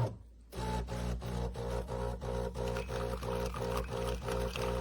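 De'Longhi Rivelia espresso machine starting its pump about half a second in, then running in a low buzzing drone with a regular pulse as it brews the espresso for an Americano.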